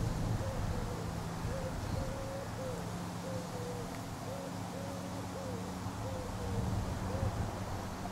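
A bird cooing over and over, a string of short, low, hoot-like notes, with a steady low hum underneath.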